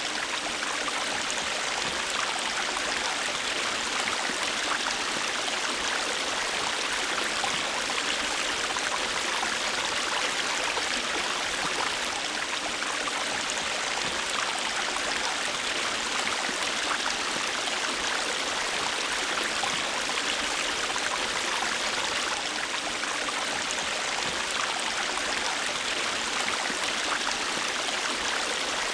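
River water flowing over stones: a steady rushing and babbling.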